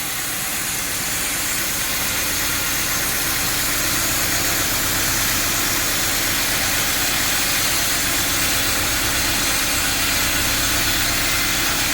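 Sawmill machinery running steadily, a low machine hum with a hiss on top, getting slowly a little louder.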